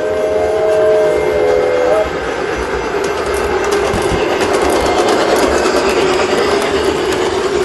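Large-scale model train sounding a multi-note horn chord that cuts off about two seconds in, then the train running along the track with a steady rumble and light clicking.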